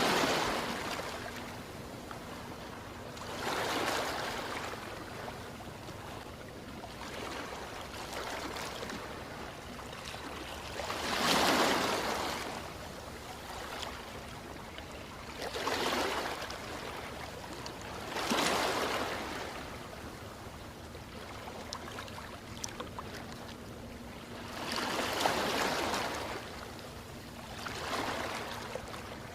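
Ocean waves breaking and washing in, each surge swelling and fading away every few seconds, about seven times, over a steady wash of water.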